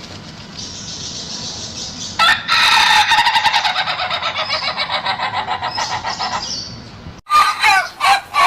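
Ayam ketawa (Indonesian laughing chicken) rooster crowing: a long crow of rapid stuttering notes, the laughter-like call the breed is kept for, lasting several seconds. After a brief break near the end, another fast stuttering crow begins.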